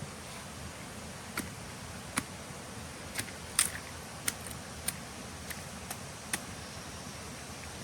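A string of about nine short, sharp taps or clicks at uneven intervals, the loudest a little past the middle, over a steady background hiss.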